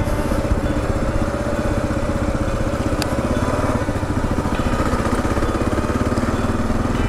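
Kawasaki KLR 650's single-cylinder four-stroke engine running at a steady speed, with one short click about three seconds in.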